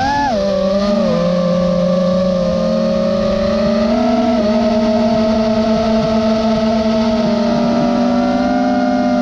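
Nazgul FPV quadcopter's motors and propellers whining at a steady pitch in several tones. A quick throttle punch right at the start makes the pitch rise and drop, and it rises slightly again about four seconds in and near the end.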